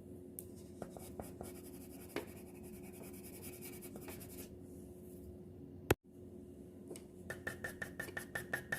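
Colour pencil scratching on paper in shading strokes as a bird drawing is coloured in. A sharp click comes a little before six seconds, and from about seven seconds the strokes turn quicker and rhythmic.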